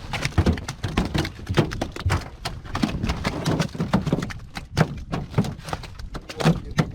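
Rapid, irregular knocking and thumping, several knocks a second.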